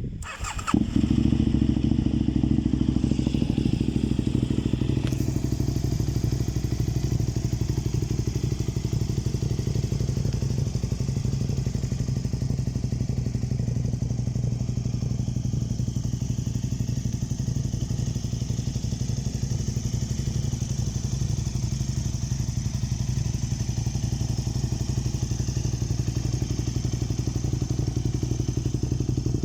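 KTM 990 Super Duke's V-twin engine through a Mivv Suono titanium aftermarket silencer, catching less than a second in and then idling steadily.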